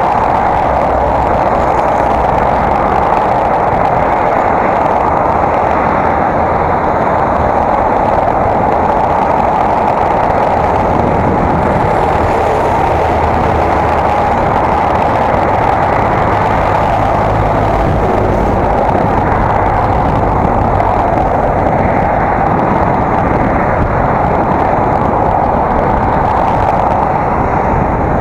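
Steady wind and rolling noise of a bicycle ride, heard through an action camera's microphone, with no breaks.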